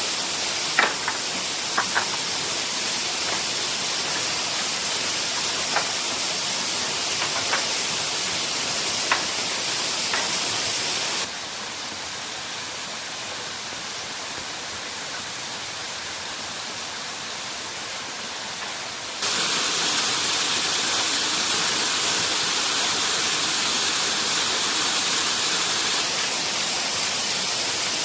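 Waterfall rushing in a steady hiss, with a few sharp light knocks in the first ten seconds. The rush drops in level about eleven seconds in and comes back louder about eight seconds later, with abrupt steps.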